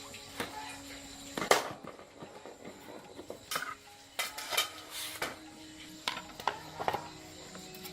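Irregular metal clinks and knocks of tools and small metal parts being handled, about ten in all, the loudest about a second and a half in.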